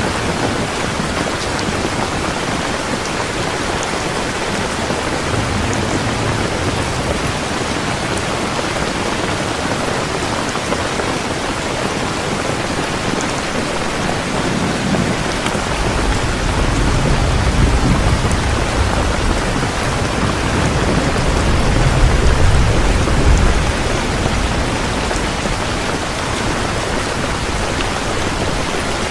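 Heavy rain pouring steadily. About halfway through, a low rumble of thunder swells and then fades a few seconds before the end.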